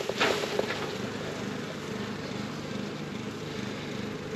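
A mass of wild honeybees buzzing in a steady hum around exposed comb. There is a brief rustle of handling near the start.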